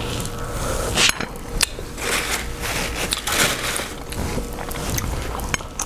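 Close-up eating sounds of king crab legs: sharp cracks of shell being broken open and noisy bursts of chewing and handling, over a steady low room hum.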